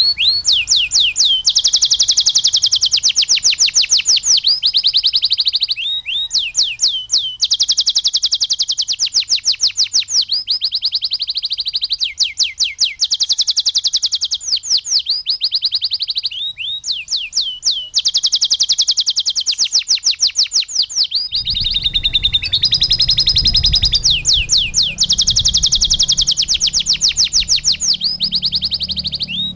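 Domestic canary singing a continuous song of fast repeated trills in phrases of a few seconds, its song filled with learned lovebird notes. A low hum joins about two-thirds of the way through.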